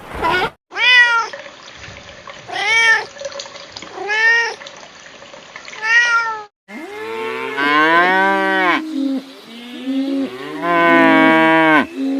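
A cat meowing four times, short rising-and-falling meows about a second and a half apart. Then, after an abrupt break, a cow mooing in two long, low calls with shorter calls between.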